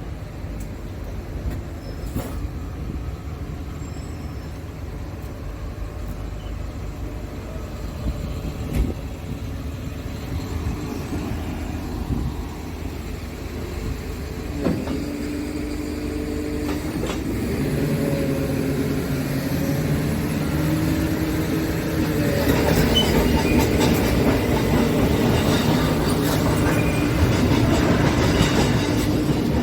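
Scania S tractor unit running, a steady low rumble that grows louder over the second half, with engine tones that shift in pitch from about halfway through.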